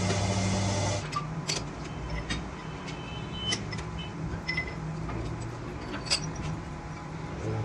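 A workshop machine's motor hums steadily and cuts off about a second in. Light metal clinks and taps follow, some of them ringing briefly, over a low steady hum.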